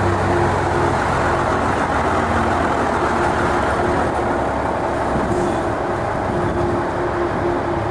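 M818 6x6 military truck's diesel engine running steadily, with a low even hum under the noise of the truck.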